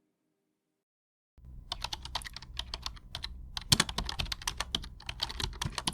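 A rapid, irregular run of sharp clicks and taps over a low background rumble, starting about a second and a half in after near silence.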